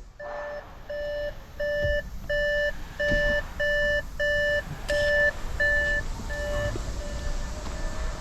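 Electronic warning beeper sounding a steady, evenly spaced series of about a dozen short beeps, roughly one every 0.6 seconds, growing fainter and stopping near the end.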